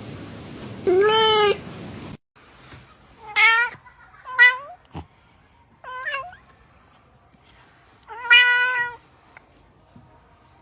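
Domestic cat meowing: one meow about a second in, then, after a cut to a quieter recording, a series of four meows, the last one drawn out. A single sharp click falls between the second and third of these.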